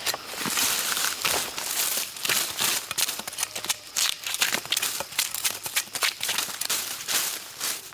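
Dense, irregular crackling and rustling of dry plant material being handled or trodden, a rapid string of small sharp snaps.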